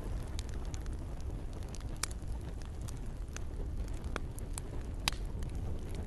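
Campfire crackling: scattered sharp pops and snaps, the loudest about two seconds in and again about five seconds in, over a steady low rumble of burning and light rain.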